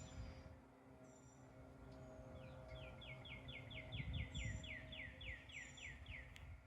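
Songbirds singing: one bird gives a fast trill of about four falling notes a second, starting partway in and stopping near the end. Another bird repeats short, thin, high chirps, over a low rumble.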